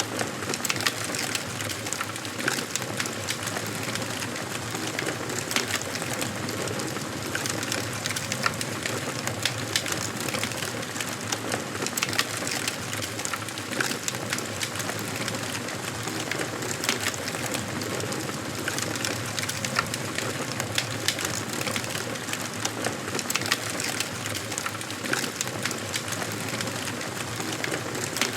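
Wood fire burning in a fireplace: frequent irregular crackles and pops over a steady hiss.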